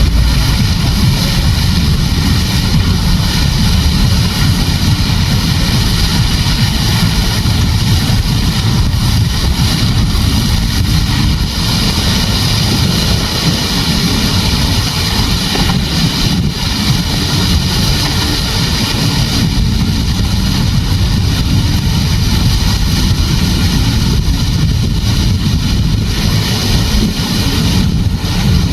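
Wind buffeting the microphone, a heavy uneven rumble, over a steady rushing hiss.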